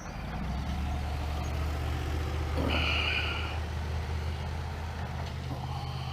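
A motor vehicle, likely a truck, running with a steady low engine drone that comes in suddenly at the start. A brief high-pitched squeal sounds about three seconds in.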